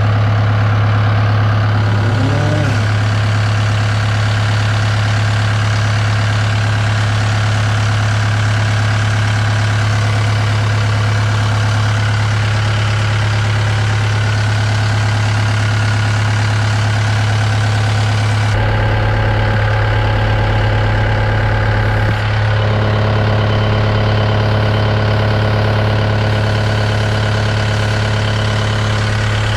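Cat 272D3 skid steer's diesel engine idling steadily, with a strong low hum, just after being started. It is kept running so fluid samples can be drawn from its sampling port. Its tone shifts slightly about two-thirds of the way through.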